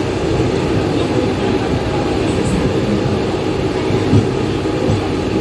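Mumbai suburban local electric train running at speed: a steady, loud rumble of wheels on rails with a few faint knocks.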